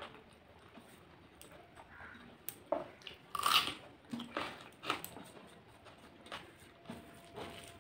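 Close-up mouth sounds of a person chewing a mouthful of rice and vegetables: irregular wet smacks and clicks, with one louder crunchy bite about three and a half seconds in.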